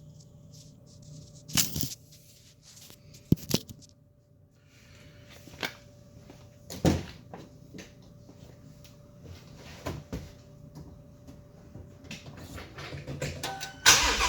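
A scattering of sharp clicks and knocks, like a door, latch or controls being handled, over a faint steady tone. Near the end a loud sound sets in as the Shelby GT350's 5.2-litre flat-plane-crank V8 is started cold.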